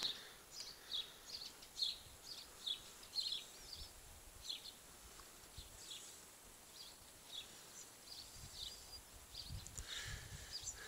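Small birds chirping: a busy run of short, high notes, two or three a second.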